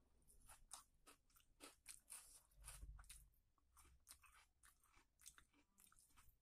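Faint close-up chewing of a mouthful of rice and chicken curry eaten by hand: a string of short wet mouth clicks, a few a second, with a dull low bump about three seconds in.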